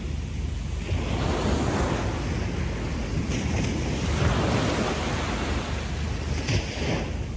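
Small waves breaking and washing up a sandy beach, the surf swelling and easing in slow surges every couple of seconds, with a steady low rumble of wind on the microphone.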